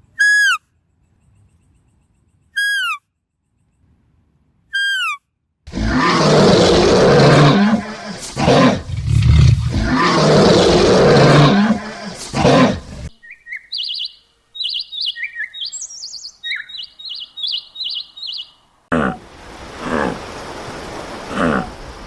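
A series of animal calls. First come three short falling whistled calls about two seconds apart. Then a loud, rough roar-like call lasts about seven seconds, and it is followed by a rapid series of high bird chirps.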